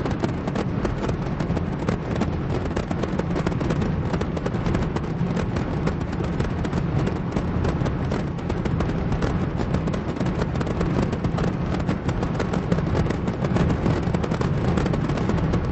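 Dense, continuous barrage of firework bursts, with rapid bangs and crackles packed closely together at an even level throughout.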